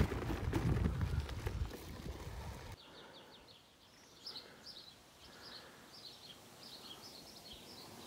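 Low rumbling wind noise on the microphone. After about three seconds it drops away sharply, and a small bird is heard chirping, a quick string of short high notes repeated over and over.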